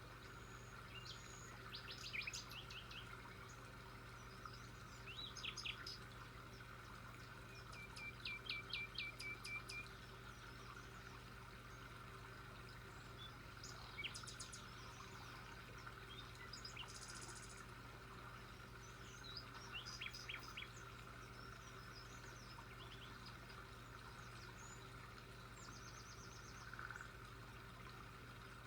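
Birds chirping now and then with short calls and trills, the longest a quick run of repeated notes about eight seconds in, over a faint steady hum.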